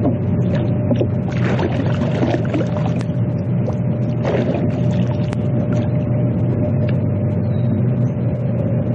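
Boat motor running steadily, with a constant hum and a steady higher tone. Brief rushing noises come about one and a half and four seconds in.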